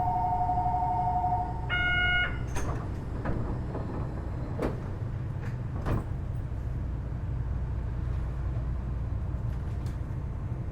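Two-tone door-closing warning on a Kitakyushu Monorail Series 1000 train, stopping about a second and a half in. A short chime follows, then knocks as the sliding doors shut, over the low steady hum of the stopped monorail car.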